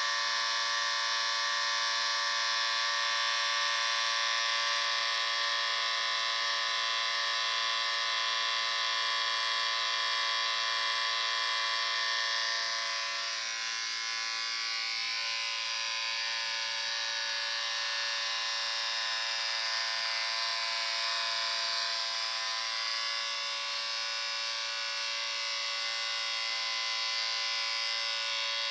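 Electric shaver running steadily: a continuous buzz with many overtones. About 13 seconds in, its tone shifts slightly and it gets a little quieter.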